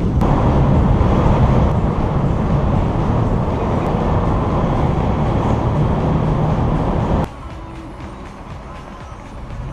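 Loud, steady rumble of a heavy vehicle, cutting off abruptly about seven seconds in to a quieter background.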